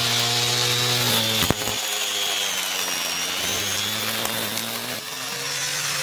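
Angle-grinder-powered homemade grass cutter running, its motor whining high with the pitch wavering as the load changes, and a single sharp knock about a second and a half in.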